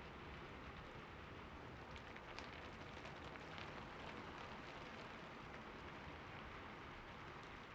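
Steady, fairly quiet rainfall, with scattered individual drops ticking against a surface.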